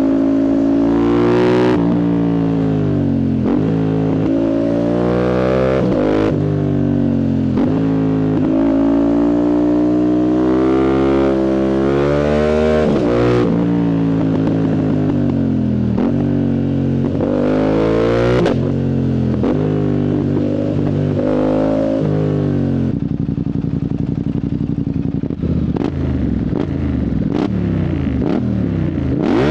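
Yamaha MT-07's CP2 parallel-twin engine on a loud full exhaust with no dB killer, accelerating hard. Its pitch climbs and drops sharply several times as the quickshifter snaps through the upshifts. About two-thirds of the way in it falls to a lower, rougher engine-braking note with a few sharp exhaust pops, then revs up again at the end.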